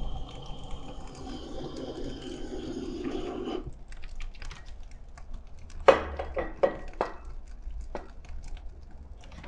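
Kindling burning in the firebox of a wood-burning fireplace during preheating: a steady rushing noise that cuts off suddenly about three and a half seconds in, then scattered crackles and sharp clicks, the loudest about six seconds in.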